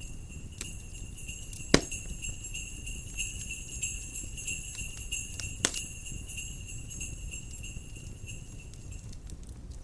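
Jingle bells shaking steadily, ringing high and bright, over a crackling wood fire with two sharp, loud pops, about two seconds in and near six seconds. The bells stop near the end.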